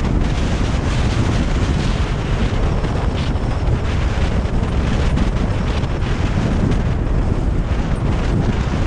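Strong nord-ost wind blasting the microphone, giving a loud, steady, deep rumbling wind noise without letup.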